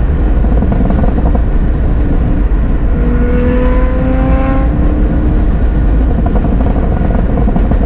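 Car engine accelerating under a constant heavy rumble of road and wind noise; its note climbs steadily for about two seconds, starting about three seconds in, then fades back into the rumble.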